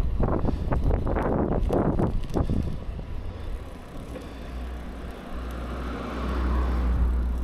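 Bicycle riding along, with wind buffeting the microphone as a deep rumble. There are rattles and knocks over the first few seconds, then a smoother rush that swells near the end.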